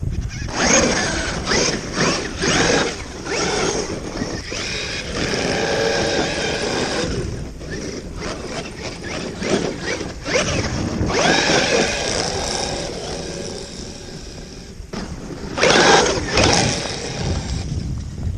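Traxxas X-Maxx electric RC monster truck driving in snow, its brushless motor whining up and down with the throttle and its tires churning. The loudest bursts come near the start and again toward the end.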